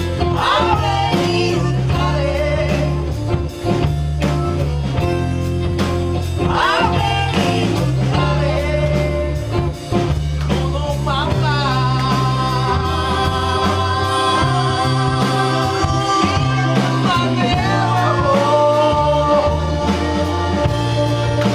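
A band plays a soul song, with a singer's voice over bass and drums. Long held notes carry through the second half.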